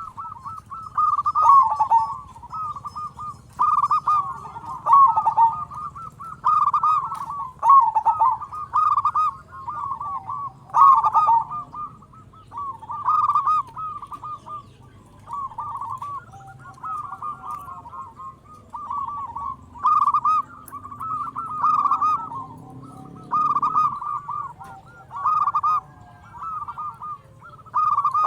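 Zebra dove (perkutut) cooing: short rippling, trilled phrases repeated roughly once a second, with a faint low hum underneath.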